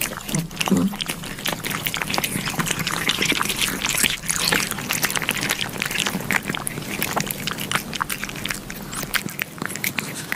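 Cats lapping yogurt smeared on a sheet of glass: a fast, continuous run of wet licking clicks.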